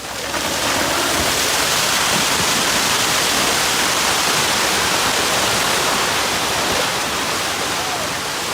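Loud, steady rushing noise that sets in abruptly at the start and eases slightly near the end.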